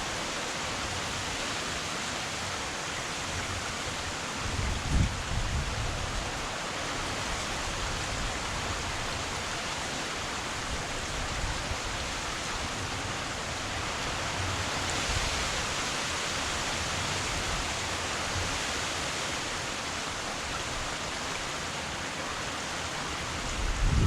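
Heavy rain falling steadily, a dense even hiss. There is a brief low rumble about five seconds in and another near the end.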